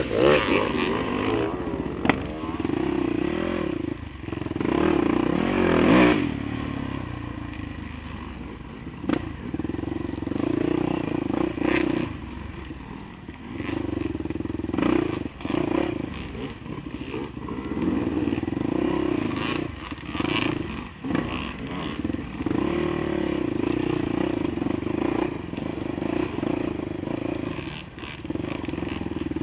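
Dirt bike engine running, mostly steady with a few brief revs, with scattered clattering and scraping.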